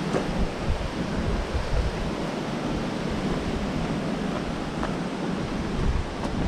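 Steady rush of falling water, with gusts of wind on the microphone adding an uneven low rumble and a few faint clicks.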